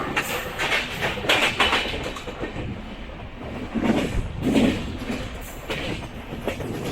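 Moving passenger train with LHB coaches, heard from on board: a steady running rumble with the wheels clattering unevenly over rail joints and points, the loudest knocks about a second in and again near the middle.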